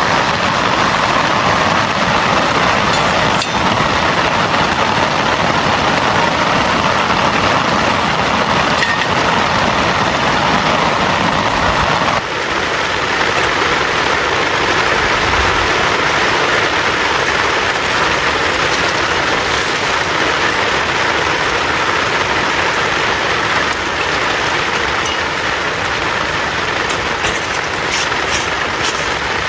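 Heavy rain falling steadily as a dense, even downpour. About 12 seconds in, the sound turns slightly lighter and thinner, with a few faint drip ticks near the end.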